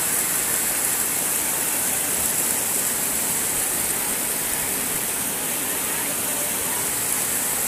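Steady rain falling, an even hiss strongest in the high treble that does not let up.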